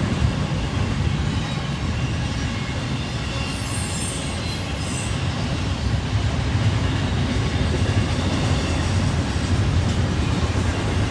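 Freight train cars rolling past on steel wheels, a steady low rumble without a break.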